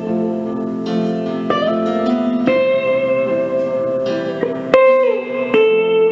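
Instrumental electric guitar music: long, sustained lead notes changing every second or so, with one note sliding downward about five seconds in.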